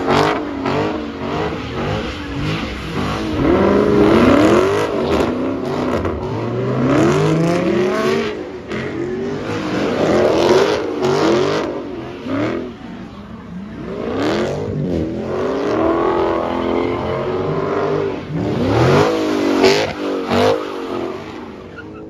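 Dodge Challenger drifting, its engine revving up and down over and over while the rear tyres spin.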